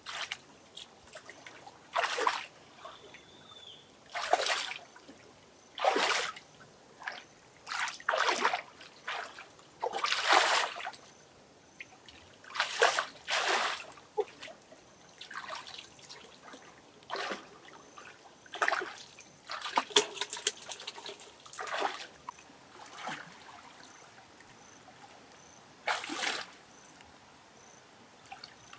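Water splashing and dripping in short, irregular bursts, roughly one every one to two seconds.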